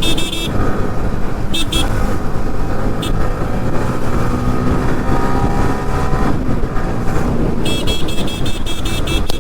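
Motorcycle running on the road with steady wind and road noise on the rider's microphone, its engine note sliding down and back up midway. Bursts of rapid, high-pitched beeping come several times, the longest near the end.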